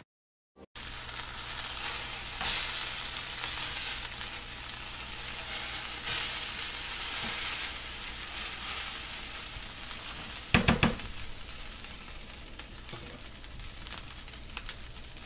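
Broccoli florets and peas sizzling as they fry in butter in a pan while being stirred, starting just under a second in. About ten and a half seconds in, a brief clatter of the stirring utensil knocking against the pan.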